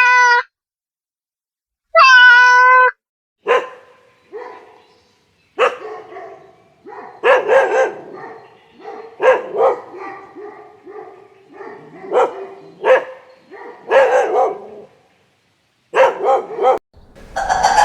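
A cat meows twice, then a dog barks in a long series of short, irregular barks.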